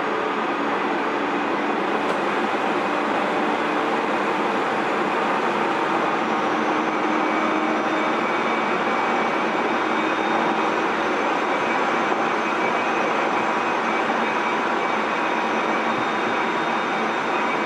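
Tobu 30000 series electric train running at speed, heard from inside a motor car: steady rumble of wheels on rail with a faint motor hum.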